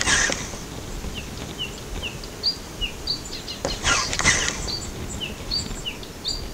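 A small songbird calling over and over with short, quick, falling chirps, about two a second. Two brief rushing bursts of noise come through, one at the very start and a louder one about four seconds in.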